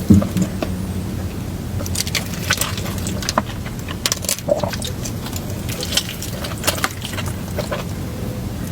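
Close-miked eating: crunchy bites and chewing, with irregular sharp crackles and clicks of food and packaging over a low steady hum.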